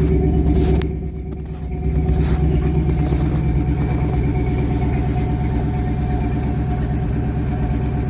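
1971 Ford F100's original 302 small-block V8 idling steadily while warming up after a cold start, purring like a kitten. The level dips briefly about a second in.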